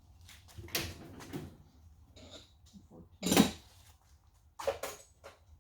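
Scattered clinks and knocks of metal tools and bolts being handled while fitting the main bearing cap bolts, with one heavier knock about three and a half seconds in and two quick clicks near the end.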